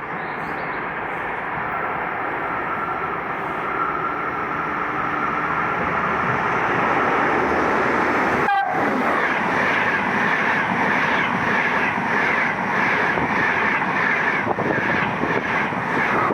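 Frecciarossa high-speed passenger train passing through a station at speed. The rail noise grows steadily louder, then turns into an even rhythmic clatter of wheels as the carriages go by. A split-second dropout falls about halfway.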